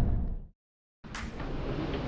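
A deep, heavy rumble fades away within half a second and cuts to a brief total silence. Then a steady outdoor traffic hum starts, with two sharp clicks about a second apart.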